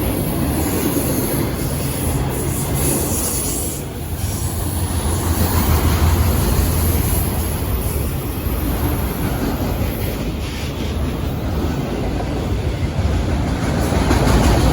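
Freight cars of a passing CSX freight train rolling by at close range: a steady, loud rumble of steel wheels on the rails.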